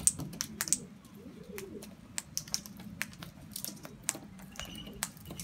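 Irregular sharp clicking and tapping of birds' beaks pecking seed off a hard surface, with a few faint bird chirps and a soft dove call.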